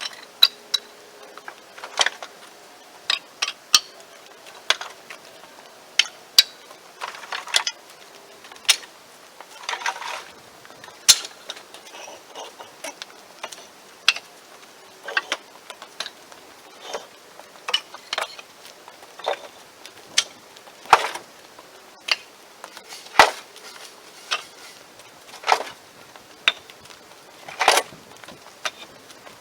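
Split firewood pieces knocking and clacking as they are handled and stacked, in irregular sharp knocks about once a second.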